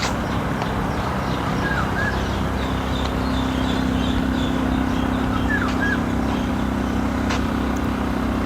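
Steady low vehicle hum, with birds chirping briefly several times over it.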